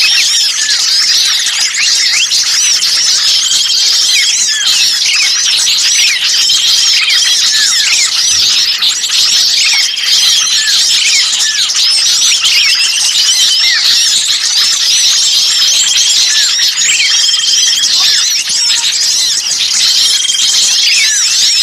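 A dense, loud chorus of many small birds calling at once: rapid high chirps, arching squeaky notes and repeated short piping calls, layered continuously. It is a bird-lure recording of noisy, agitated small birds, meant to draw other birds in.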